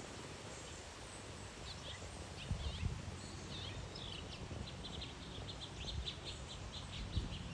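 Small songbirds calling, with chirps starting about two seconds in and then a rapid trill of short notes, about five a second, through the second half. Low thumps of wind or handling on the microphone come a few times.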